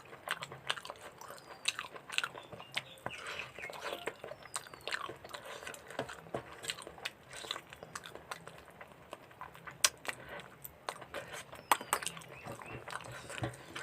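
Close-up chewing and biting of mutton curry with rice, eaten by hand: wet mouth sounds with many sharp, irregular smacks and clicks.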